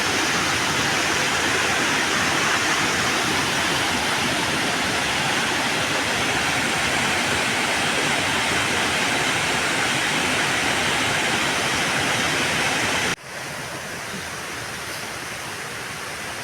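Steady rushing noise with no engine tone in it. It drops sharply about thirteen seconds in, then goes on more quietly.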